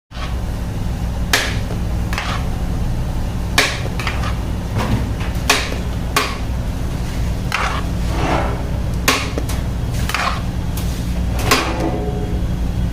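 Kitchen clatter: irregular sharp knocks and clanks, roughly one a second, some ringing briefly, over a steady low hum.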